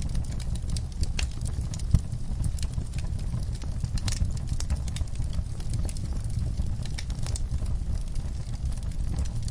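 Wood fire crackling in a fireplace: scattered sharp pops and ticks over a steady low rumble, with one louder pop about two seconds in.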